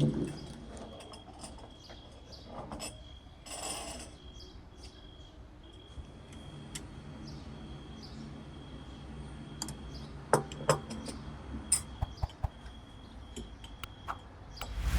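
Farmyard ambience: chickens clucking and small birds chirping, with scattered light clicks and knocks.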